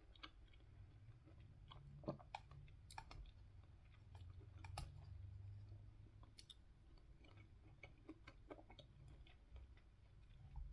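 Faint chewing of soft fruit (mango and pineapple), with scattered light clicks of a plastic fork picking at a plastic container, over a low steady hum.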